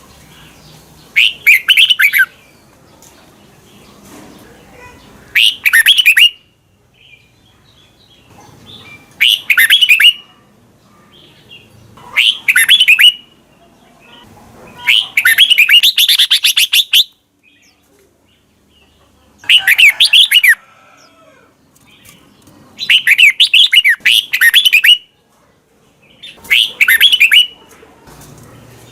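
Red-whiskered bulbul singing short, loud, warbling phrases every three to four seconds, about eight in all, with one longer, rapid run near the middle.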